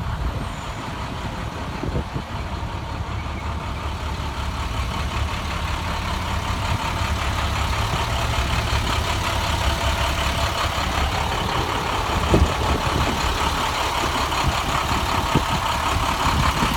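The International MaxxForce DT inline-six diesel of a 2013 DuraStar 4300 truck idling steadily, growing gradually louder, with a few faint knocks.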